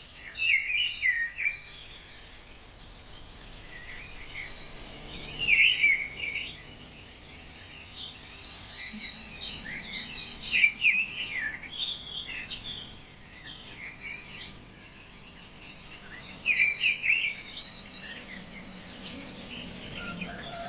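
Songbirds chirping and singing in several bursts of quick rising and falling notes, over a faint steady background hiss.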